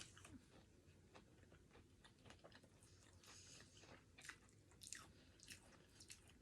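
Faint chewing with soft, irregular mouth clicks.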